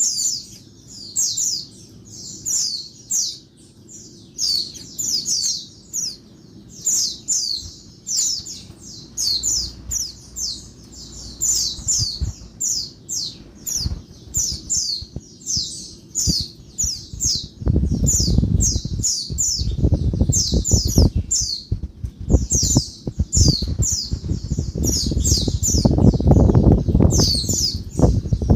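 Female white-eye (pleci) calling noisily: rapid, repeated short high chirps that fall in pitch, a couple a second, in clusters. From about two-thirds through, a loud low rumble runs under the calls.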